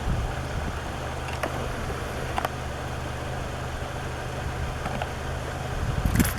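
Game-viewing vehicle's engine idling steadily, with a short louder burst of noise near the end.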